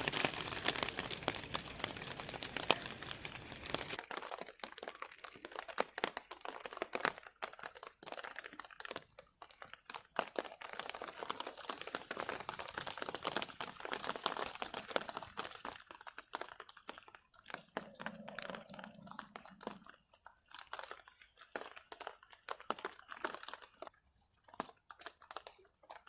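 Rain dripping and pattering on a tarpaulin shelter: many irregular ticks and taps, dense for the first few seconds and thinning out after about four seconds.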